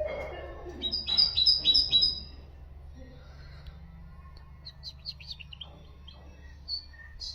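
A songbird singing: a fast phrase of about five loud, repeated high notes about a second in, followed by scattered softer chirps.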